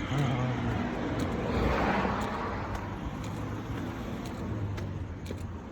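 A road vehicle passing by, its noise swelling to a peak about two seconds in and then fading away.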